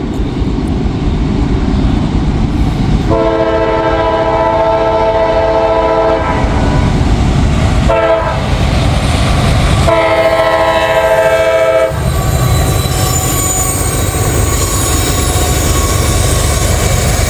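Freight locomotive horn sounding its chord for a grade crossing: a long blast, a short one, then another long one over the rumble of the approaching train. About twelve seconds in, the horn stops and the train's engines and wheels rumble steadily past.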